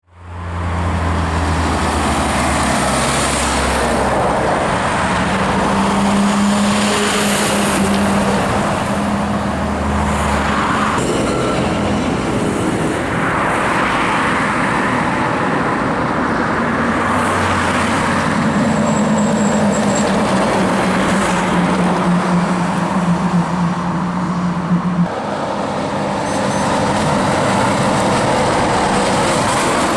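Heavy trucks' diesel engines running and driving past, with road traffic noise. The steady low engine note changes abruptly several times as one truck sound gives way to another.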